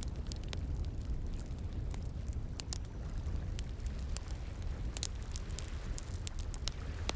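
Wood fire crackling, with irregular sharp pops and snaps, over a steady low rush of flowing water.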